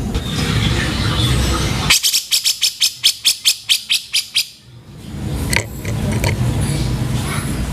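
Cucak jenggot (grey-cheeked bulbul) calling: about two seconds in, a rapid run of about a dozen sharp, harsh notes, roughly five a second, over a noisy recording background with a low hum.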